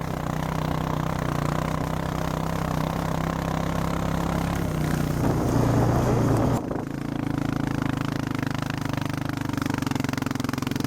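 A vehicle engine running steadily, swelling and rising a little about five seconds in. It breaks off sharply partway through, and a different steady engine note carries on.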